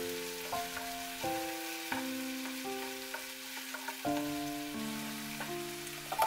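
Sliced onion, chives and spices sizzling in oil in a non-stick pot, stirred with a wooden spoon with small knocks, under background music of held notes that change about once a second. Near the end, a brief clatter as cubes of butternut squash are tipped into the pot.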